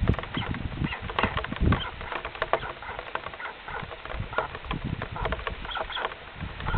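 Nest-microphone audio of chicks in a nest: irregular knocks, rustles and short squeaky sounds, a few each second, with occasional louder low thumps.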